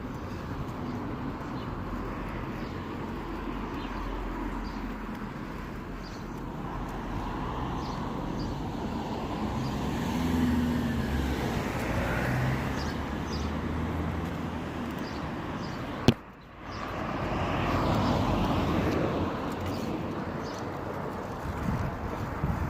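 Steady outdoor road and traffic noise with wind on the microphone while riding a bicycle, swelling in the middle. One sharp click about two-thirds through, followed by a brief dip in sound.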